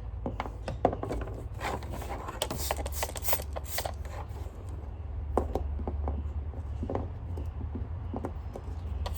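Irregular clicks, taps and scrapes of plastic vacuum-cleaner parts and screws being handled during reassembly, over a steady low hum.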